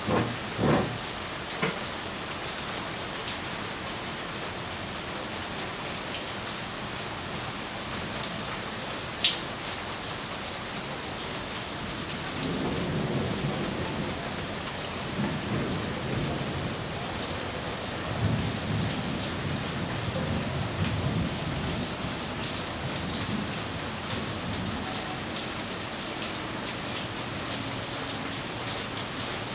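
Steady rain falling on foliage and pavement, with a few sharp drips striking close by near the start and once more about a third of the way in. Around the middle, a low, uneven rumble of distant thunder rolls through for about ten seconds before fading back under the rain.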